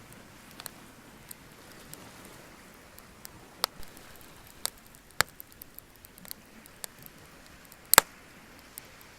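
Wood bonfire crackling, with irregular sharp pops over a faint steady hiss; the loudest is a sharp double pop about eight seconds in.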